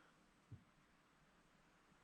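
Near silence: faint background ambience, with one brief, faint low knock about half a second in.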